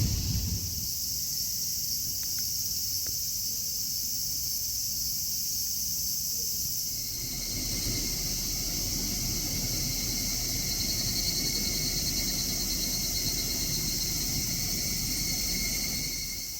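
Outdoor insects calling in several steady high-pitched layers, with another pulsing call joining about halfway through, over a low rumble.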